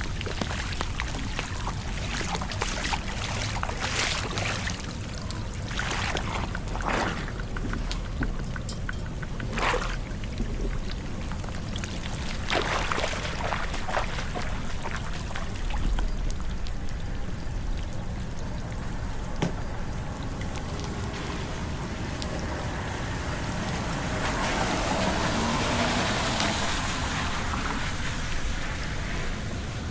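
Water pouring and trickling under steady rain, with a few brief splashes in the first half and a louder rush of water near the end.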